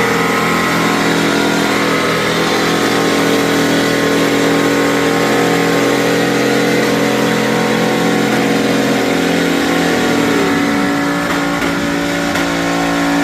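Mud truck's engine running hard at high revs, the pitch dropping about ten seconds in.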